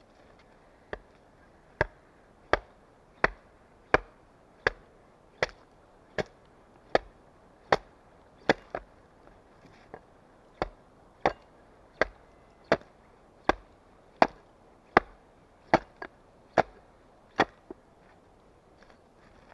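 An axe chopping wood with steady, evenly spaced blows, about four every three seconds, with a short break in the rhythm about halfway through before the chopping stops near the end.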